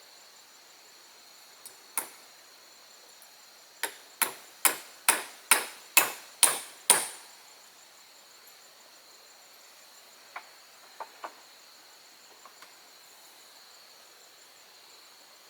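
Hammer blows on wood, a single knock and then a quick run of about eight ringing strikes, roughly three a second, each louder than the last, followed by a few light taps.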